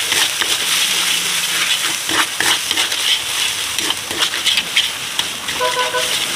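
Chopped garlic and spices sizzling in hot oil in a large aluminium wok, with a metal spatula repeatedly scraping and stirring across the bottom of the pan.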